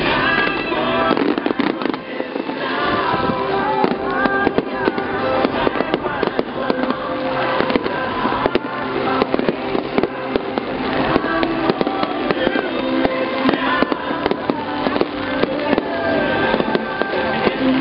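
Fireworks going off in quick succession, many sharp bangs and pops, over loud music carrying a melody.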